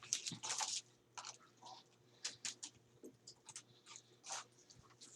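Close-up chewing and biting of a fast-food hamburger: irregular short mouth smacks and crunches, densest in the first second.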